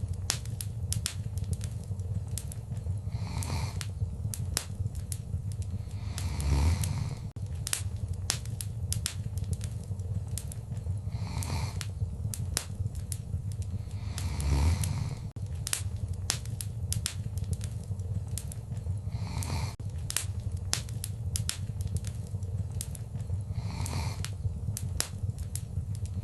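Wood fire burning in a fireplace: a constant low rumble of flame with dense, irregular crackles and sharp pops from the burning logs. A soft whooshing swell rises and falls every few seconds.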